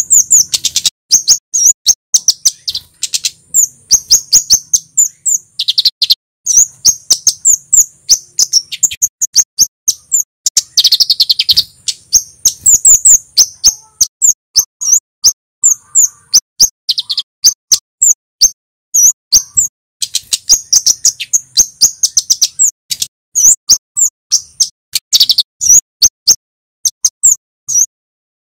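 Male kemade, a flowerpecker, calling in rapid runs of sharp, high 'cit' notes broken by short pauses.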